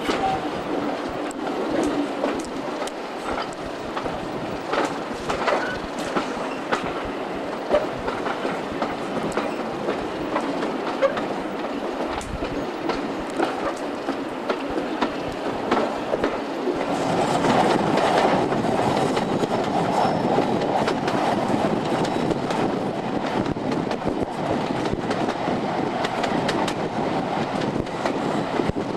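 Diesel-hauled passenger train heard from an open coach window, with class 37 locomotives at the head: steady running noise with the wheels clicking over the rail joints. The noise grows louder about seventeen seconds in.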